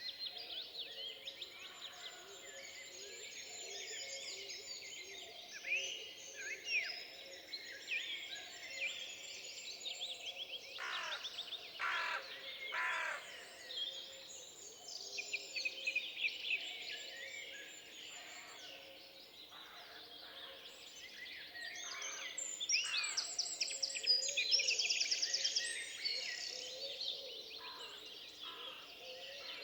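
Several birds singing and calling over one another in a continuous dawn-chorus-like mix of chirps, trills and whistles. There are a few louder calls about eleven to thirteen seconds in, and the chorus is busiest a little past two thirds of the way through.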